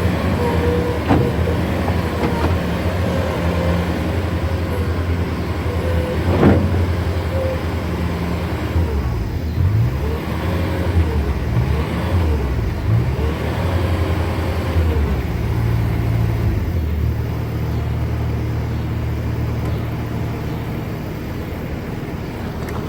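Bobcat S650 skid steer's diesel engine running under load as the machine drives and works, its pitch dipping and rising several times in the middle. A single sharp knock comes about six and a half seconds in.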